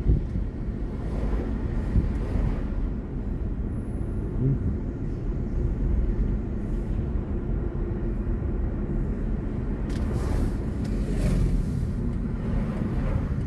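Road and tyre noise of a BMW i4 M50 electric car on the move, heard from the cabin: a steady low rumble, with a brief rise of higher hiss about ten seconds in.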